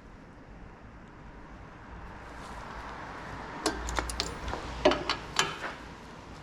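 Metal hand tools clinking as they are handled: about six sharp clinks in quick succession past the middle, over a low rumble.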